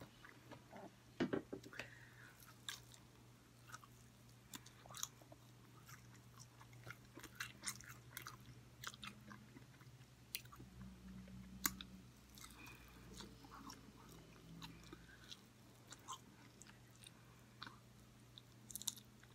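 Faint mouth sounds of eating a sauced chicken wing: biting and chewing the meat off the bone, heard as scattered soft clicks and smacks. A steady low hum runs underneath.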